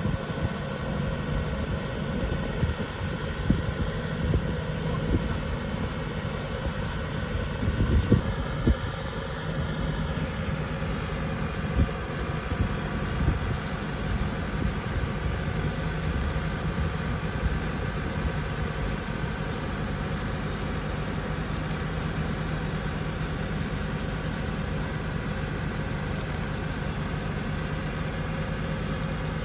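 Heavy vehicle engine idling steadily, with a few sharp knocks in the first ten seconds.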